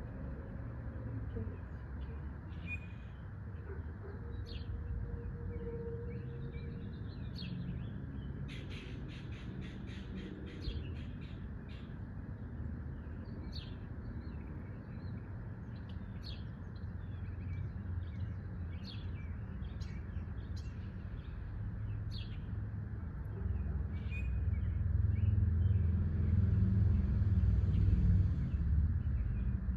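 Small birds chirping on and off, with a quick rattling run of notes about nine seconds in. A low steady rumble sits underneath and grows louder near the end.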